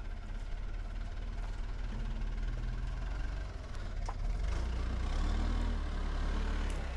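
Backhoe's engine idling steadily, then speeding up and running louder from about four seconds in, as it does when the hydraulics are worked. One faint click is heard just before the engine speeds up.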